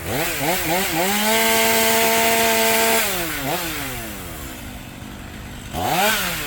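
Chainsaw revving in a few quick blips, then held at full throttle for about two seconds while it cuts into bur oak. It drops back to idle about three seconds in and revs up briefly again near the end.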